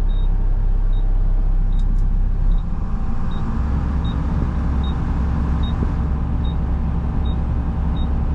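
Front-load garbage truck's diesel engine running in the cab, stepping up to a higher steady speed about two and a half seconds in. A flasher relay ticks lightly about one and a half times a second.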